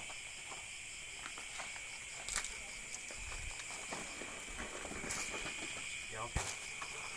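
Steady chirring chorus of crickets and other night insects, with a few scattered knocks about two, five and six seconds in.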